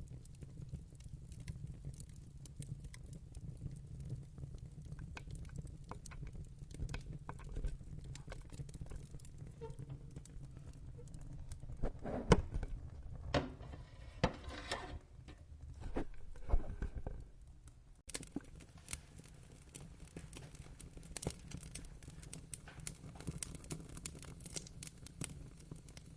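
Wood fire crackling in a fireplace: a low steady rumble under many small sharp pops, with a run of louder cracks and snaps about halfway through.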